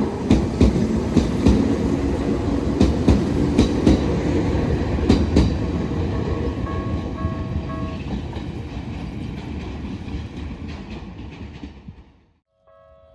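Toyohashi Railway train passing over a level crossing, wheels clacking over rail joints, fading away over the last few seconds and cutting off near the end. A few brief tones of the crossing's warning bell come through under the train noise about halfway through.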